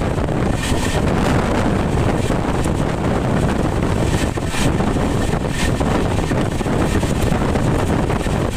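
Passenger train running at speed, heard from on board: a steady rumble with rushing wind, and short sharp clicks from the wheels and track now and then.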